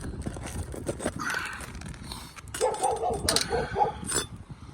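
A dog barking in a quick run of short, yipping barks about halfway through, with a few sharp clicks around it.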